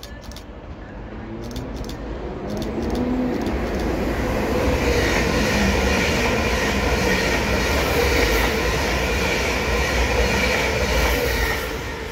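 Electric multiple-unit train passing on the tracks: the rumble of wheels on rail grows over the first few seconds, holds steady with an electric whine above it, then falls away near the end.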